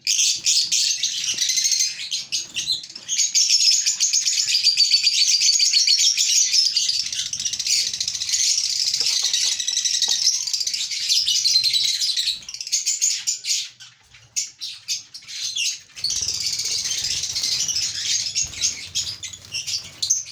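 Lovebirds chattering in a continuous stream of shrill, rapid chirps. The chatter breaks off for a couple of seconds about two-thirds of the way through, with a few clicks, and then resumes.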